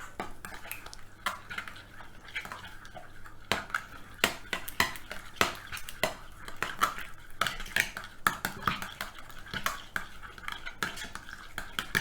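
A spoon clinking and scraping against a mixing bowl, stirring a chicken marinade in an irregular run of quick knocks.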